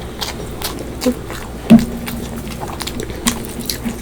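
Close-up wet eating sounds of a person chewing fish curry and rice: mouth smacks and small clicks, with one much louder short sound near the middle.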